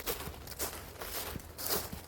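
Footsteps of a person walking on a woodland and heath path, about two steps a second.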